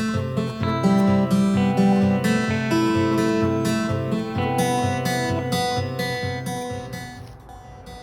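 Background music: acoustic guitar strummed in a steady rhythm, about two strums a second, fading out near the end.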